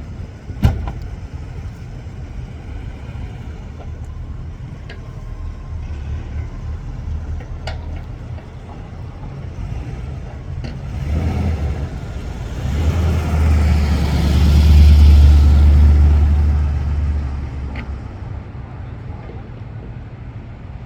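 Car engines rumbling at low speed. One car passes close and loud in the second half, building and then fading away.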